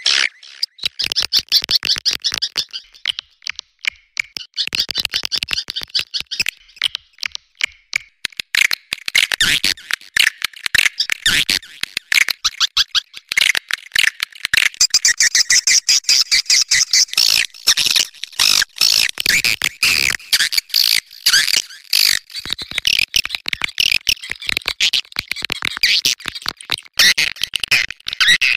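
Swiftlet mating calls: a dense, continuous chatter of fast, high twitters and clicks from many birds at once.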